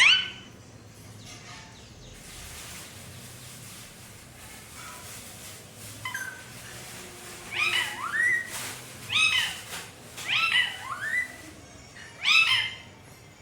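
A pet parrot calling: a loud rising squawk right at the start, then from about six seconds in a string of short two-part calls in a voice like a cat's, its mimicked 'mummy, mummy'.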